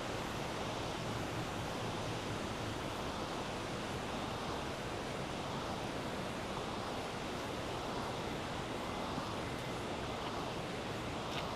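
River water rushing, a steady, even hiss that does not change.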